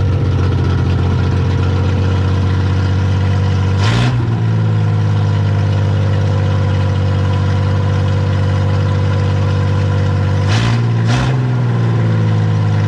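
Freshly rebuilt inline-six engine of a 1972 Datsun 240Z idling steadily, with a brief change in its note about four seconds in and two more near the end.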